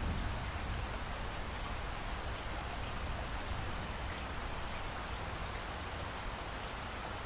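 Steady rainfall, an even hiss of rain with scattered individual drops ticking and a low rumble underneath.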